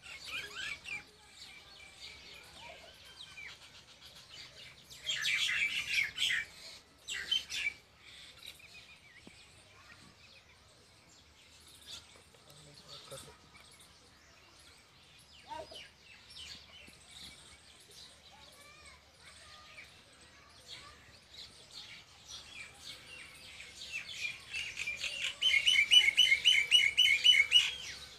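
Birds chirping: short bursts of calls about five and seven seconds in, scattered faint chirps, then a quick run of repeated chirps, about five a second, over the last few seconds.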